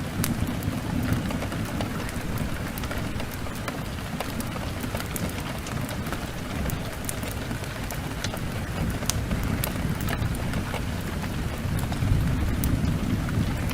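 Heavy rain falling steadily over a deep rumble, with scattered sharp crackles. The rumble swells about twelve seconds in.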